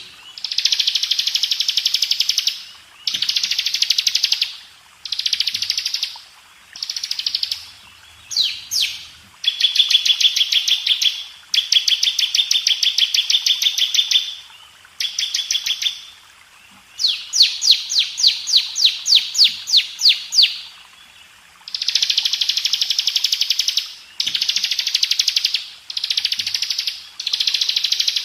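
Bar-winged prinia (ciblek) singing: high, fast-repeated notes in phrases of one to three seconds with short breaks between them. One phrase in the middle slows into a run of separate sharp notes.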